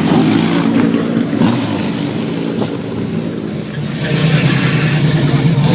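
Car engines running as cars drive out past, one getting louder about four seconds in.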